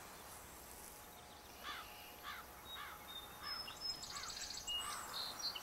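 Faint bird calls: a series of about six short, evenly spaced notes, roughly one every 0.6 s, joined about three and a half seconds in by a run of higher, quicker chirps.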